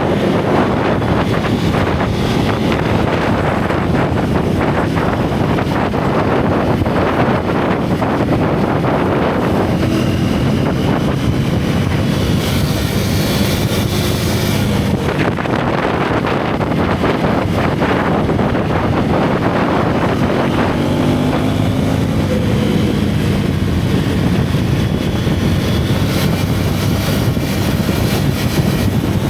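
Single-cylinder motorcycle exhaust and engine note heard from the rider's camera, the pitch rising and falling with throttle through the bends, under heavy wind noise on the microphone.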